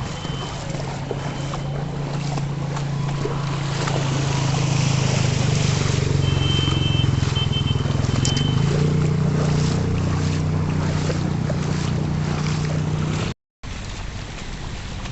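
A vehicle engine running with a steady hum, with wind rushing over the microphone. A short high tone sounds about six seconds in. The sound cuts out briefly near the end.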